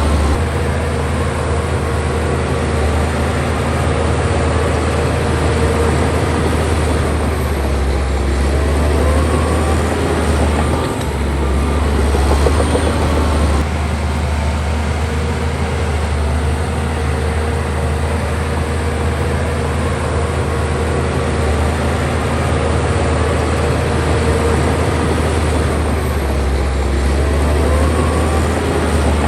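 Heavy diesel engine of a bulldozer running steadily under load: a constant deep drone with a rough, rattling noise over it.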